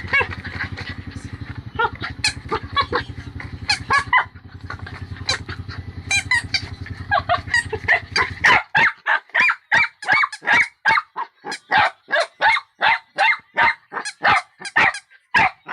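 A puppy barking and yapping in short, high calls. They come sparse at first over a steady low hum, which cuts off about halfway through; then the barks come fast, two or three a second, to the end.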